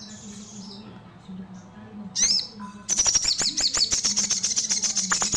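Sogon (spiderhunter) singing: one short high call about two seconds in, then a fast run of sharp, high, falling chips, roughly ten a second, for just over two seconds, stopping abruptly near the end. This is the rapid 'nembak' burst that bird keepers prize.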